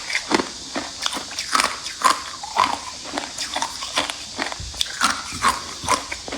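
A person chewing ice: a steady run of crisp crunches, roughly two a second.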